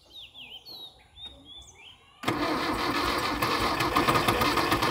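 Toyota Corolla KE36 engine being cranked by its starter, a first start attempt after sitting for about eight years. The cranking cuts in suddenly about two seconds in and goes on steadily, loud and rapid; birds chirp before it.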